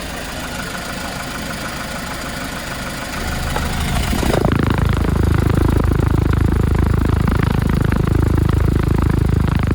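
Kia Bongo 3 truck engine running steadily at idle; about three to four seconds in the sound grows markedly louder and deeper, then holds steady until it cuts off abruptly at the end.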